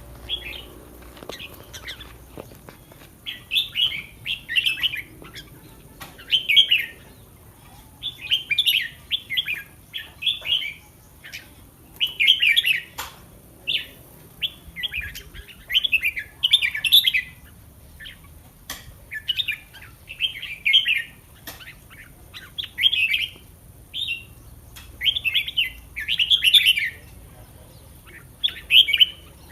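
Red-whiskered bulbul singing: short warbling phrases repeated one after another, every second or two.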